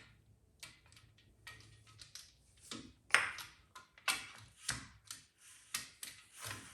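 Cam bearing removal tool bar being slid through the engine block's cam bore, clinking against the cam bearings: a run of irregular metallic clicks and knocks, the loudest about three seconds in.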